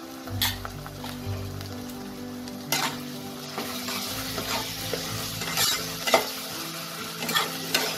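Ginger-garlic paste and sliced onions sizzling in hot oil in a deep pan, the sizzle growing stronger about three seconds in. A metal spatula scrapes and knocks against the pan several times as the mixture is stirred.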